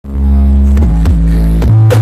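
DJ music played very loud through a 'sound horeg' carnival sound system, the Blizzard rig. Heavy bass notes are held, then shift to a higher held bass note near the end.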